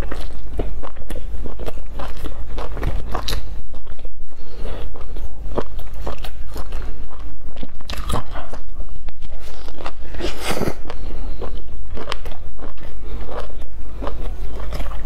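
Close-miked chewing of a crusty flatbread sandwich stuffed with sausages, with many short crisp crunches and wet mouth clicks.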